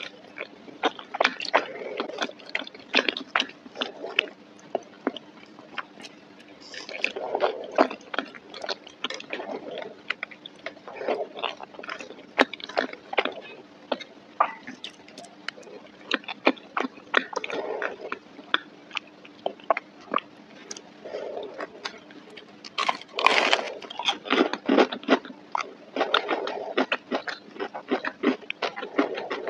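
Close-miked wet chewing and sharp mouth clicks from someone eating soft, saucy mac and cheese, along with a plastic fork scraping across the plate.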